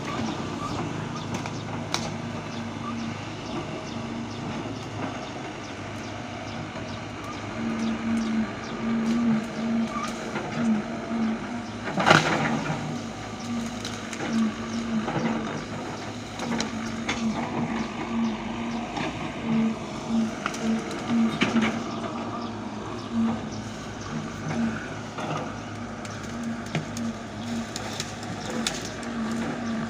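A heavy machine's engine running steadily, with a pulsing low hum, and a loud sharp knock about twelve seconds in.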